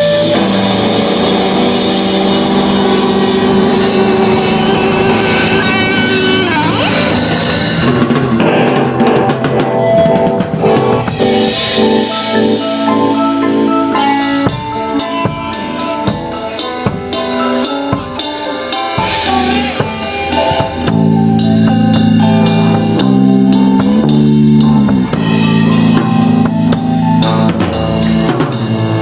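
Live band music: sustained pitched chords at first, then a drum kit hitting a busy beat with snare and bass drum from about halfway.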